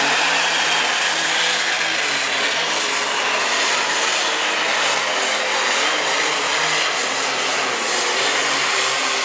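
Super stock pulling tractor's engine running flat out under load during a pull, a loud, steady mechanical noise that holds without break.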